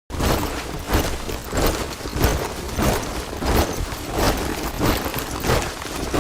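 A body of soldiers marching in step, their boots striking together in a regular heavy tread of about three steps every two seconds.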